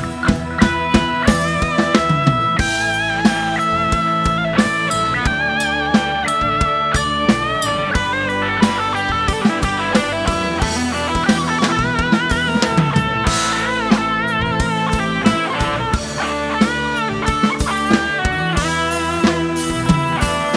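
Live band playing an instrumental break: a lead guitar melody with bent, wavering notes over a drum kit and bass.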